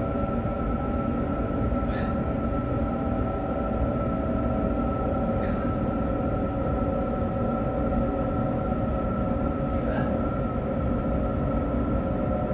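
Inside a Sydney Trains electric suburban train running at speed: a steady rumble of wheels on rail with a steady whine over it, and a few faint clicks.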